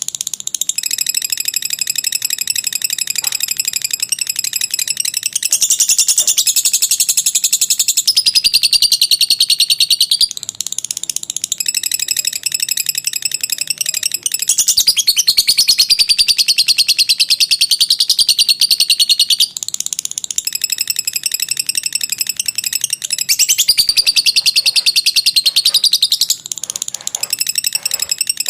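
Lovebird singing its long 'ngekek' chatter: a continuous, high-pitched buzzy trill of very fast repeated notes, in long phrases broken by short pauses.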